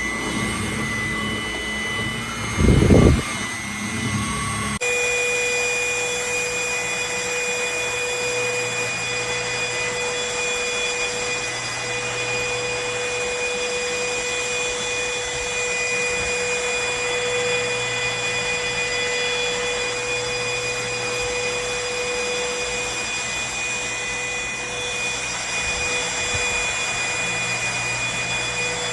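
MBYULO cordless stick vacuum running with a steady motor whine over airflow noise. A brief low thump comes about three seconds in. About five seconds in, the sound changes abruptly to a different steady whine.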